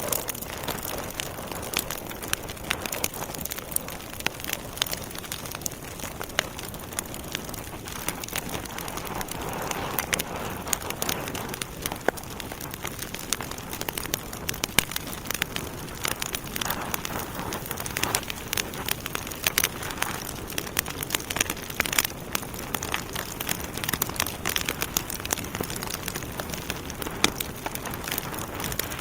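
Logs burning in a fireplace: a steady hiss of flames with frequent irregular sharp crackles and pops.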